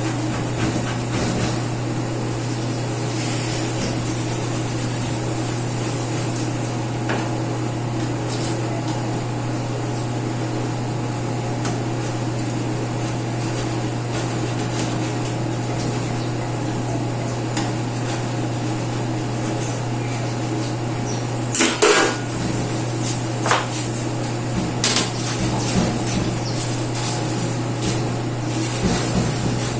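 A steady low hum throughout. Two-thirds of the way through comes a single loud knock, then several lighter knocks and clatter, as of hard kitchen items being handled during cleaning.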